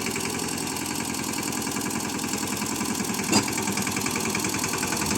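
Swaraj tractor's diesel engine running steadily at an even speed, with one brief knock a little past halfway.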